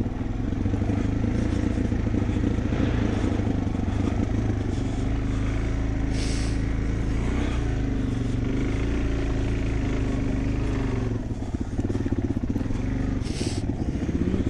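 Dirt bike engine running at steady, low revs without revving up, with two short higher-pitched sounds about six and thirteen seconds in.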